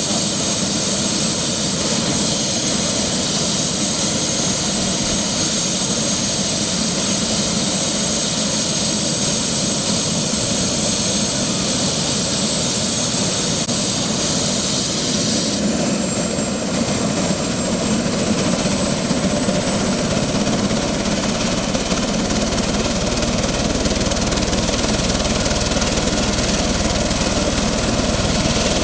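Helicopter turbine engine and rotor running close by, with a steady high whine. About halfway through, the whine jumps up in pitch and stays there, and the low rumble grows.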